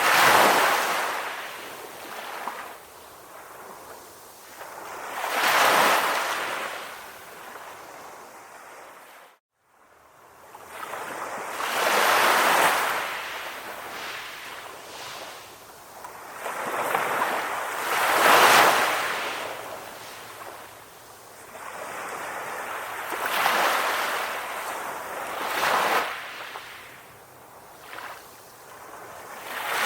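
Calm ocean waves surging and receding, each swell rising and falling about every six seconds. The sound cuts out for an instant about nine seconds in.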